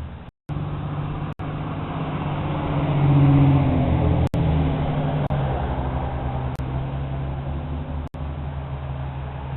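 A motor vehicle's engine running with a steady low hum, swelling about three seconds in and easing off again, broken by a few brief sharp dropouts.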